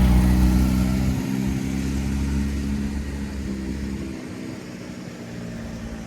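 A car engine running close by, loudest at the start and fading steadily over several seconds as the car moves away.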